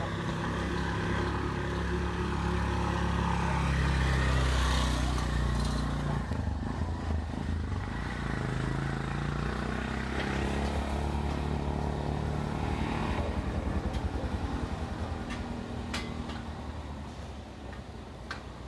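Motor vehicle engine running close by, loudest about four seconds in, then fading away.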